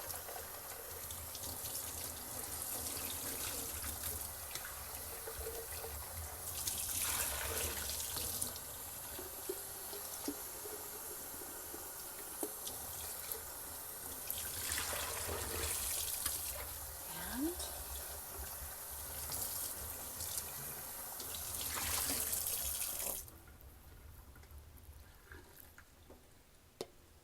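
Tap water running into a sink while a coffee maker's carafe is washed out with soap and rinsed, the splashing swelling louder three times. The water is shut off abruptly about four seconds before the end.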